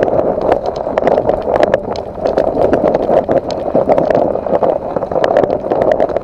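Nissan Qashqai+2 driving over an uneven road: steady tyre and road noise with frequent sharp clicks from the road surface. The front end no longer knocks or rattles now that the tie rod ends and steering shaft joints have been replaced.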